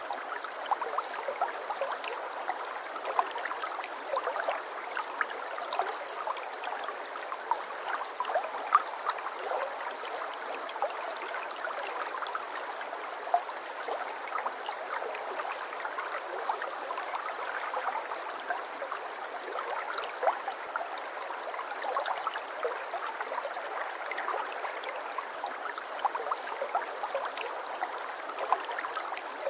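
A shallow babbling brook: water running and burbling steadily over stones, with many small splashes and droplet ticks throughout.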